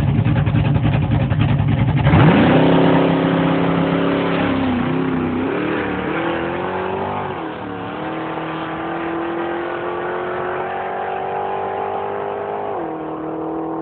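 Street-legal drag car's engine loping at the starting line, then launching hard about two seconds in. It revs up through the gears, its pitch climbing and dropping at each shift, and the loudness eases off as the car runs away down the drag strip.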